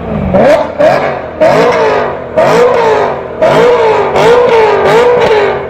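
V8 performance car exhaust revved hard in a string of sharp blips, about one a second, each rising quickly in pitch and falling away; the revs run on with a wavering pitch near the end.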